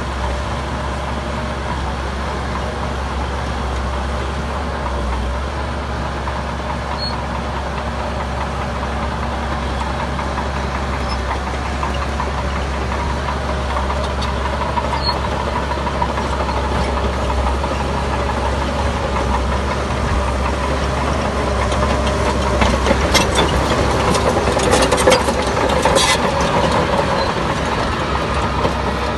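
Heavy diesel construction machinery running steadily. It grows louder in the last third, with a cluster of metallic clanks and rattles.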